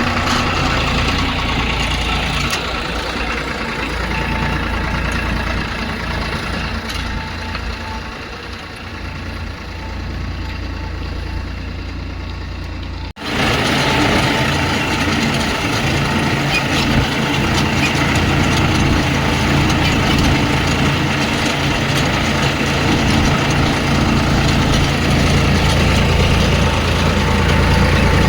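Tractor engine running steadily, breaking off briefly about 13 seconds in and coming back a little louder.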